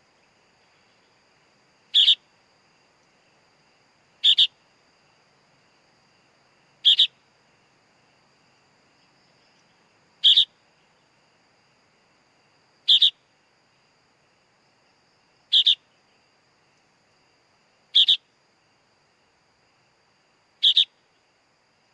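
Young sooty-headed bulbul (kutilang) chick calling: a sharp, high double-noted chirp repeated eight times at an even pace, about every two and a half seconds.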